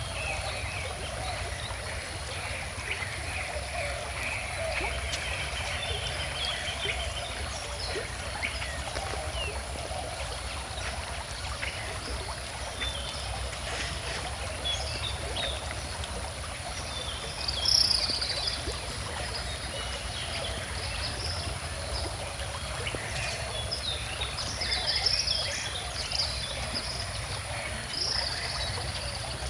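A calm river flowing steadily, with birds chirping over it. The calls get busier in the second half, with one louder call a little past halfway.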